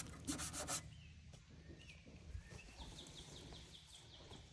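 Faint outdoor quiet with a brief rustle in the first second. A small bird then sings a rapid trill of about ten short falling notes near the end, with a couple of soft chirps before it.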